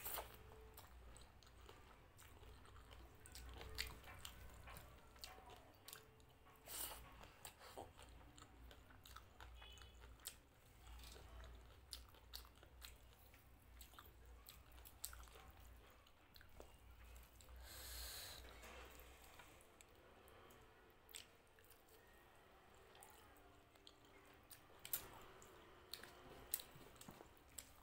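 Faint chewing and wet mouth sounds of someone eating rice and mutton curry by hand, with many small irregular clicks.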